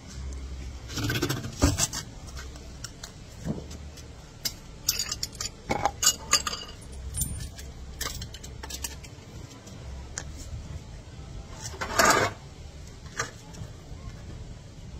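Metal clinks and clatter of tools and wheel hardware being handled while a car wheel is refitted, with scattered sharp clicks and two louder bursts of clatter, one near the start and one near the end.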